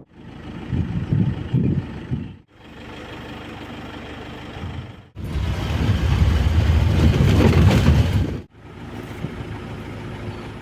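Safari jeep engine running with a low rumble, in several short clips cut together. The sound drops away abruptly at each cut and alternates between louder and quieter stretches.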